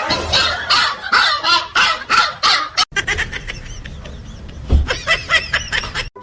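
Animal calls repeated several times a second, then a sudden cut to other, higher calls over a low rumble.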